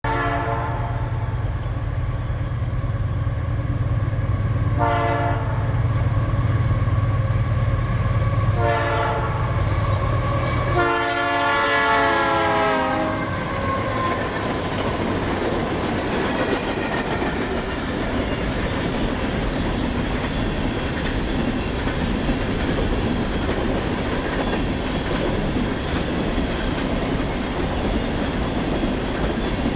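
Diesel locomotive passing close by, its engine rumbling, sounding its horn in several blasts; the last long blast drops in pitch as the locomotive goes past. The train's cars then roll by with a steady clatter of wheels on the rails.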